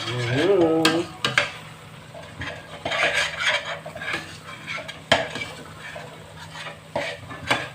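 A utensil stirring curry spices frying in a pot, scraping through a light sizzle and knocking against the pot's metal now and then.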